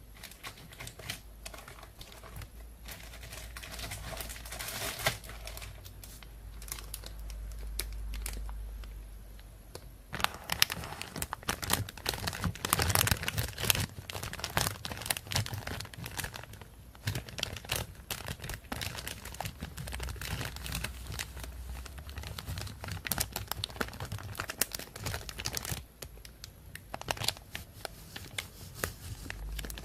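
Thin plastic shopping bag crinkling and rustling as it is handled, soft at first and louder from about a third of the way in, with a short pause near the end.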